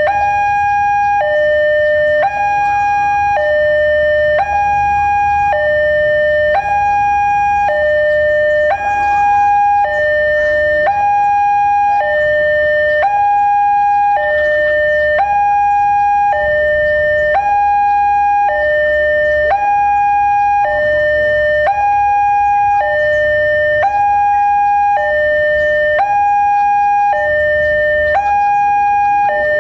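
Railway level-crossing electronic warning alarm sounding a loud two-tone hi-lo signal, switching between a higher and a lower tone about once a second, over a low rumble.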